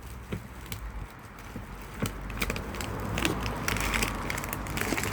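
Rubbish in a bin crackling and crunching as it is pressed down by a hand-made steel compactor, with scattered clicks and knocks that grow denser from about two seconds in.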